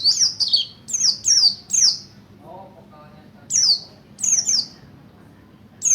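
Oriental white-eye (pleci) singing a rapid run of sharp, high chirps that sweep downward in pitch. It pauses about two seconds in, then resumes with shorter groups of chirps.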